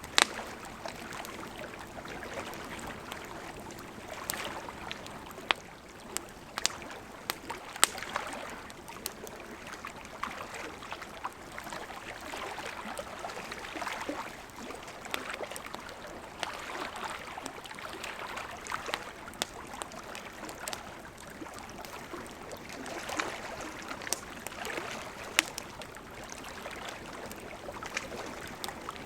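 Campfire crackling, with irregular sharp pops over gentle lake water lapping in soft, slowly swelling waves.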